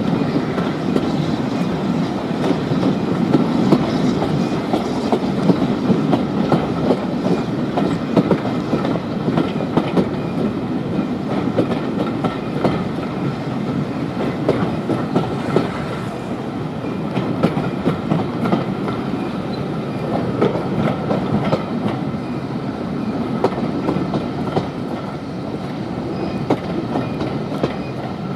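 A train running along the track, its wheels clattering steadily over the rails.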